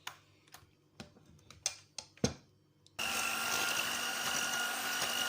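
A few light clicks and knocks, then an electric mixer switches on suddenly about three seconds in and runs at a steady speed with a whining hum, beating eggs, sugar and butter together for a cake batter.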